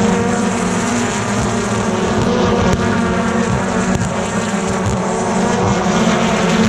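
A field of BTCC touring cars racing past, many engines running loudly together at once.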